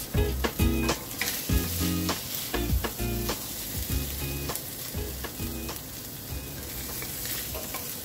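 Corned beef stir-fry with green beans and bell pepper sizzling in a hot wok while a spatula stirs and scoops it out, with short scraping clicks. Background music plays under it for the first few seconds.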